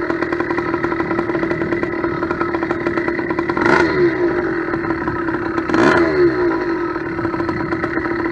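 Small two-stroke motorized bicycle kit engine, a steel-bore cylinder of about 90cc on an 80cc Chinese bottom end, idling steadily and revved twice in quick blips, about four and six seconds in. It picks up quickly on each blip while its carburetor mixture is being adjusted.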